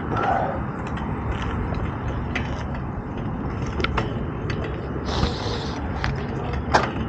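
Fixed-gear bicycle riding on the road: steady tyre and drivetrain noise with wind on the camera microphone, and scattered rattling clicks, the sharpest near the end. A short hiss comes about five seconds in.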